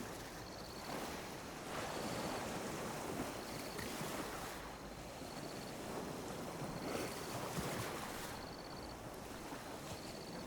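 Gentle sea waves lapping and washing on a beach, the wash swelling and easing every few seconds. A faint, short, high chirp repeats about every second and a half.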